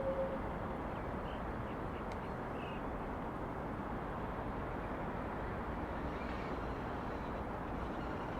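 Steady city ambience: an even hum of distant traffic. A held tone dies away just after the start, and two faint short high chirps come about one and two and a half seconds in.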